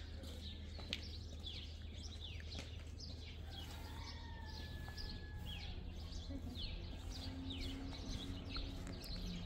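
Small birds chirping: many short, quickly falling calls, several a second, over a steady low hum.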